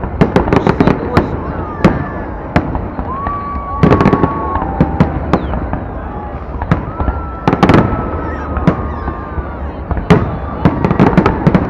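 Fireworks display: shells bursting in rapid clusters of sharp bangs and crackles, with long high whistling tones between the volleys.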